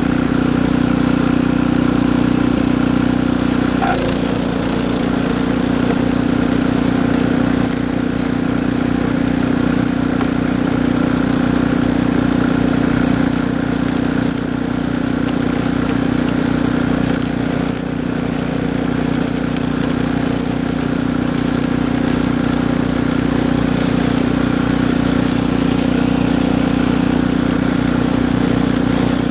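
Snowblower engine running steadily, with a slight change in its note about four seconds in.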